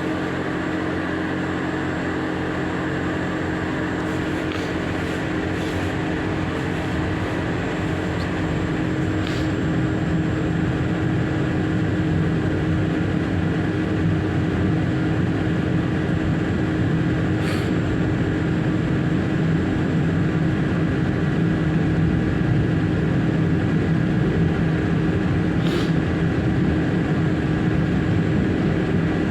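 Intercity passenger train pulling out of a station, heard from the back of the train: steady running noise and hum that grows slightly louder as it gathers speed, with a few brief high squeaks.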